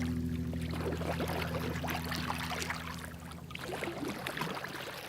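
Water splashing and trickling, with many small ticks, under the last low chord of the song, which dies away partway through; the whole sound fades toward the end.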